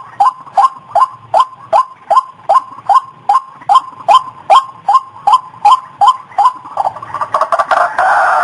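White-breasted waterhen (ruak-ruak) calling: a steady series of short, downward-dipping notes, about two and a half a second, breaking into faster, denser calling near the end. This is a lure call of the kind used to draw the birds in.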